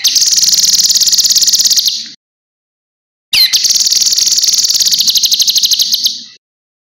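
Cucak kinoi singing two long, rapid, high trills of about two to three seconds each. Each trill opens with a quick downward sweep, with a second-long silent gap between them.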